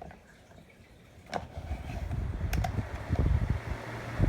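Two clicks of the Holmes Blizzard desk fan's switch, then the fan starting up, its moving air building into a low rumble that grows louder.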